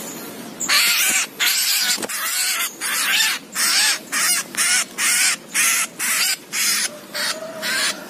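A small wild bird stuck on bird lime, being grabbed by hand, gives harsh screeching distress calls. It calls in a rapid run, about two calls a second, starting about a second in.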